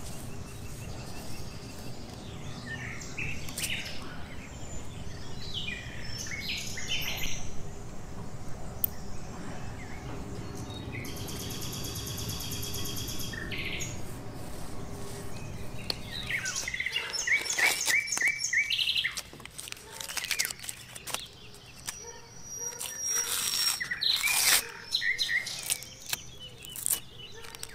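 Several birds chirping and singing, with a fast, high trill lasting a couple of seconds near the middle. A steady low background noise underneath drops away about two-thirds of the way through.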